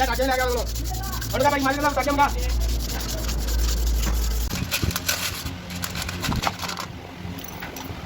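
Rubbing and scraping strokes, many in quick succession, over a low hum that stops about halfway through.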